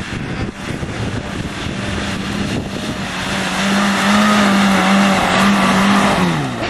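Four-wheel-drive vehicle's engine running at steady revs, growing louder about halfway through, then the revs drop away quickly near the end.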